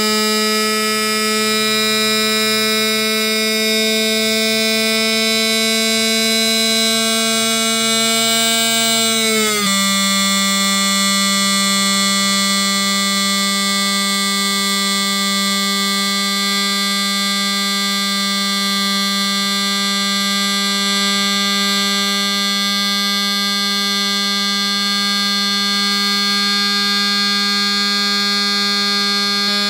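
Small DC motor of a homemade mini fan running with a steady buzzing whine; its pitch drops slightly and abruptly about ten seconds in, then holds steady.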